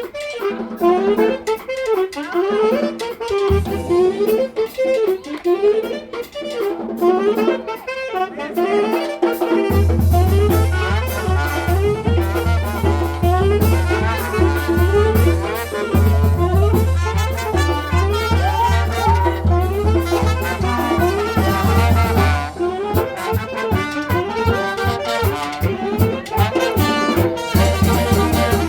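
Street brass band with saxophones, trumpets and drums playing a lively tune; deep bass notes join in about ten seconds in.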